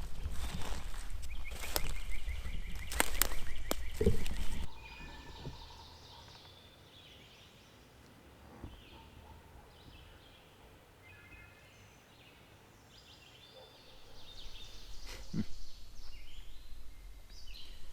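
Footsteps crunching through dry leaf litter on a woodland slope, stopping abruptly a little over four seconds in. Then quiet woods with small birds chirping faintly, and rustling steps in the leaves building again near the end.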